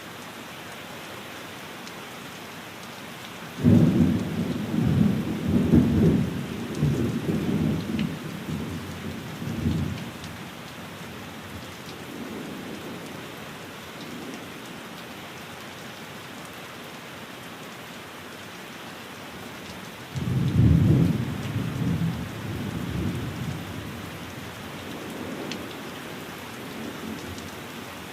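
Steady rain hissing, with two deep rolls of thunder: one comes in suddenly a few seconds in and rumbles away over about six seconds, and a second, shorter one comes about two-thirds of the way through.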